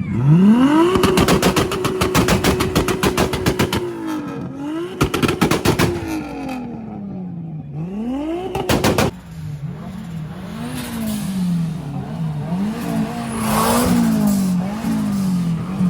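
Car engine revved hard up to the rev limiter and held there, bouncing off it with a rapid crackle, three times in the first nine seconds. After that it is blipped repeatedly at lower revs.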